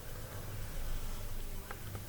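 A faint click of a calculator key being pressed about one and a half seconds in, over a low steady room hum.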